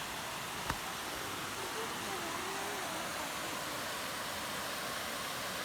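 Steady rush of falling water from a waterfall, with one sharp click under a second in.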